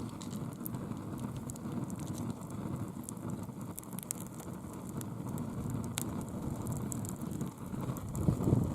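Bonfire of fallen leaves burning: a low, steady rush of flame with scattered sharp crackles and pops, swelling louder near the end.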